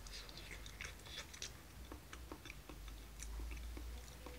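A person chewing a mouthful of rice cooked with sweet potato: faint, scattered mouth clicks and smacks. A low rumble of handling builds near the end as the rice bowl is lifted.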